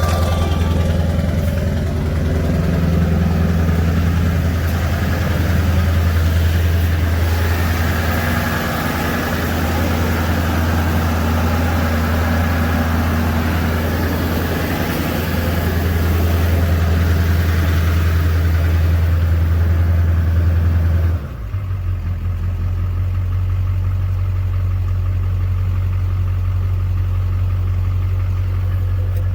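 LB7 Duramax 6.6-litre V8 turbo-diesel running at a steady idle after a fuel-filter change, being left to run to work air bubbles out of the fuel system. About two-thirds of the way through, the hiss over the engine drops away suddenly and the sound gets a little quieter.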